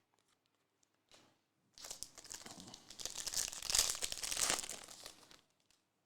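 Crinkling of a trading-card pack's plastic wrapper as it is handled and torn open, starting about two seconds in and lasting about three and a half seconds.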